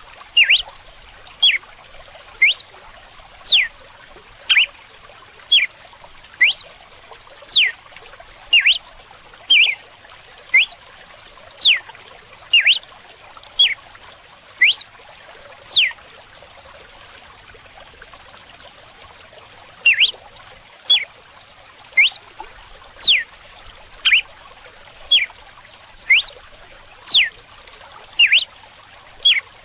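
Red-cowled cardinal (galo-de-campina) singing its 'açoite' song: a string of short, sharp notes that sweep steeply up or down, about one a second, with a pause of roughly four seconds about halfway through. Faint running water trickles steadily underneath.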